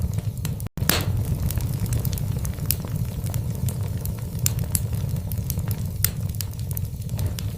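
Wood fire burning in a fireplace: a steady low rumble of flame with frequent sharp crackles and pops from the burning logs. The sound cuts out completely for a split second a little under a second in.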